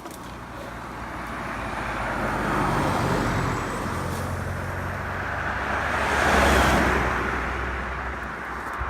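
A motor vehicle passing on the road, its engine and tyre noise swelling to a peak about six and a half seconds in and then fading.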